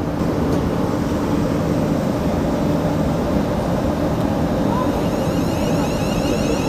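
Electric train at the platform pulling away: a steady low hum, then, about five seconds in, a whine from its traction equipment rising in pitch as it accelerates.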